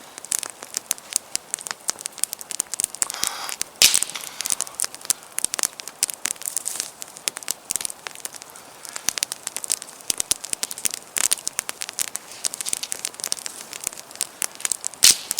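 Campfire kindling crackling as it catches: a dense run of sharp pops and snaps, with a louder snap about four seconds in and another near the end.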